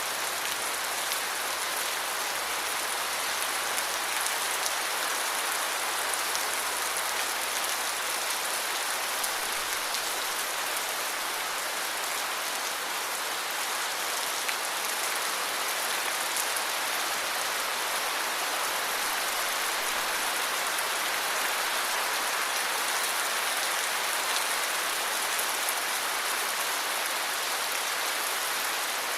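Steady heavy rain falling, a dense even hiss with fine patter of drops on surfaces. A faint low hum underneath fades out about nine seconds in.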